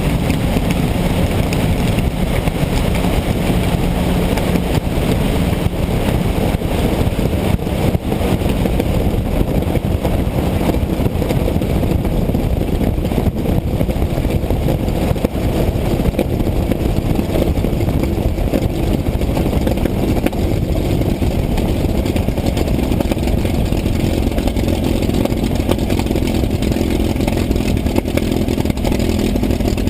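P-51 Mustang's piston engine running steadily, an even drone with little change in level.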